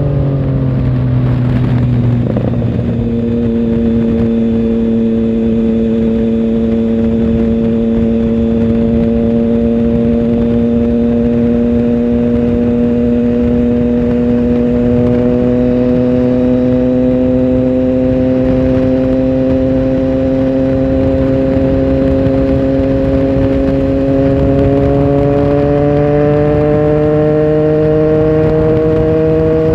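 Triumph Tiger Sport 1050's three-cylinder engine heard from on board while riding. The pitch drops over the first few seconds, then holds at a steady cruise, rising slowly, and climbs again about 25 seconds in as the bike accelerates.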